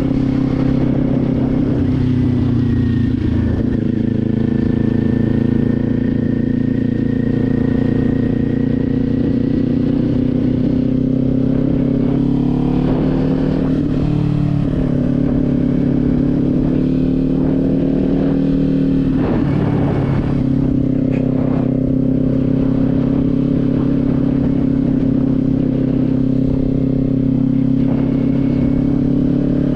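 Motorcycle engine running steadily under way. The engine speed changes about halfway through and again a few seconds later.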